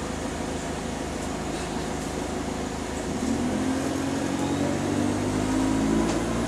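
A bus engine running at idle, then picking up about three seconds in, its note rising briefly and then holding steady and louder, heard from inside the bus.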